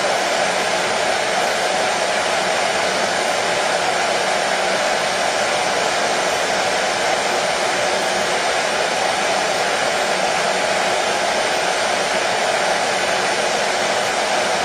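Hair dryer blowing steadily, an even rushing whoosh with a strong midrange hum and no change in speed.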